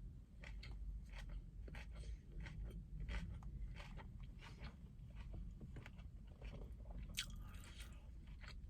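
Close-miked chewing and biting of crunchy food: irregular crisp crunches, two or three a second, with a denser crackling crunch about seven seconds in.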